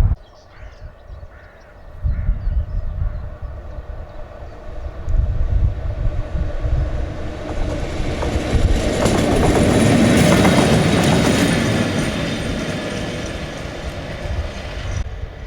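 Diesel train approaching and passing, loudest about ten seconds in with wheels clicking over the rail joints, then fading away. Wind rumbles on the microphone throughout.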